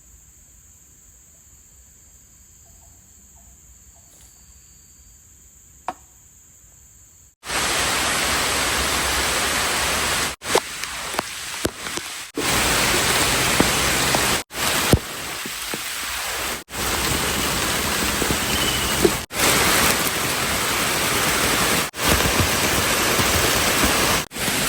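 Crickets chirping in a steady high trill, then a sudden switch about seven seconds in to heavy rain falling hard, a loud steady hiss. The rain is broken by several abrupt short gaps.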